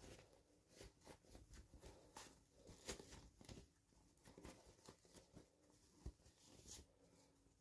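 Quiet, irregular clicks, taps and rustles of hands handling small toys and their packaging during an unboxing.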